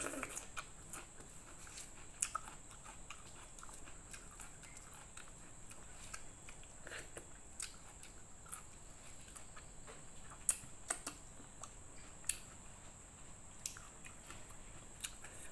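Faint chewing of bean sprouts eaten by hand, with scattered short mouth clicks and smacks, a few sharper ones about ten to twelve seconds in.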